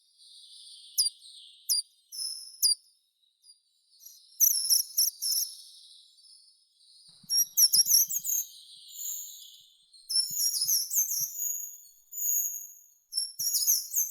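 Songbirds singing in a field: a series of short, high-pitched phrases of quick, sharp notes with brief pauses between them, over a fainter background twitter.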